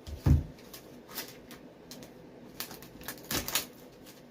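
Handling noise from taping a boot: a low knock at the start, then irregular clicks and short rasps, with a louder cluster of them a little past three seconds, as of tape being pulled off the roll and pressed around the sole.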